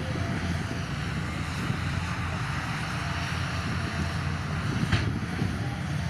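Heavy diesel engine of earthmoving equipment running steadily at a low rumble, under an even hiss, with one sharp knock about five seconds in.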